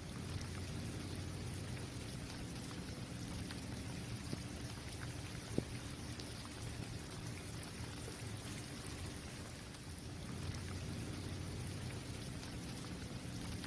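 Steady rainfall on a hard outdoor surface, individual drops ticking through the even patter, with one sharper drop about five and a half seconds in.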